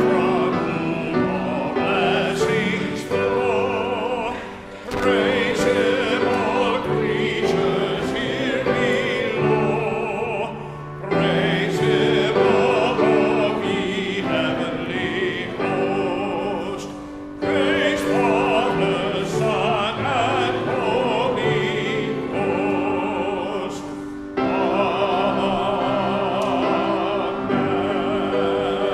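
Church music: voices singing with vibrato over a held accompaniment, in phrases of about six seconds with short breaks between them.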